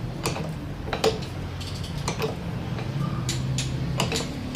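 Irregular small metallic clicks and taps, about half a dozen, as a hydraulic valve lifter is pressed down with a screw to bleed the oil out of it. A steady low hum runs underneath.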